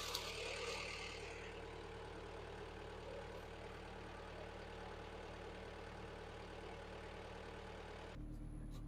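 Excavator's diesel engine idling steadily after an oil change, run to circulate the fresh oil before the level is rechecked. About 8 seconds in the sound changes abruptly to a different, lower hum.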